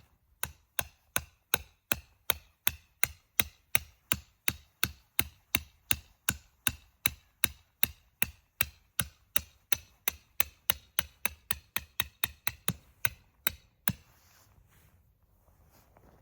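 A tent peg being hammered into the ground: a long, even run of sharp strikes, nearly three a second, that stops about two seconds before the end.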